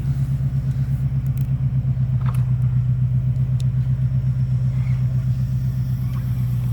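Vehicle engine idling close by: a steady low throb with a fast, even pulse, and a few faint clicks over it.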